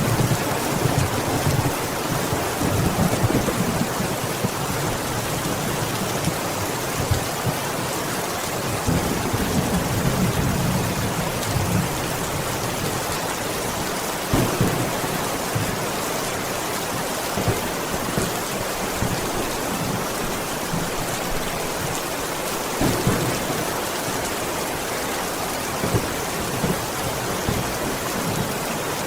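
Steady rain falling, with low rumbles of thunder swelling in the first few seconds and again about ten seconds in, and now and then a louder single drop hit.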